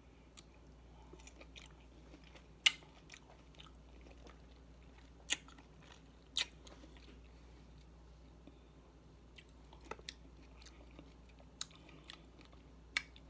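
A person chewing and biting fresh fruit (cherries and mango), with a few sharp mouth smacks at uneven intervals.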